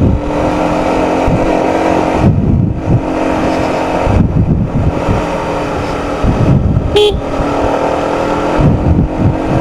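Honda CBR150R's single-cylinder engine running steadily while riding, with wind buffeting the microphone. A brief high-pitched tone sounds about seven seconds in.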